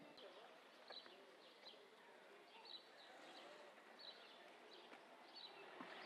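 Faint outdoor ambience: a small bird chirping short high notes about once a second over a low background hush.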